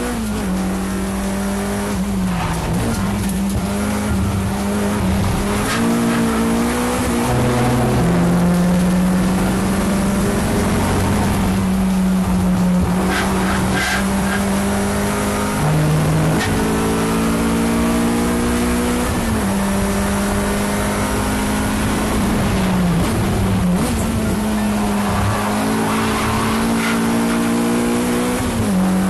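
Race car engine at high revs on a track lap. The revs repeatedly climb, then drop sharply at each gear change, and the engine stays loud throughout.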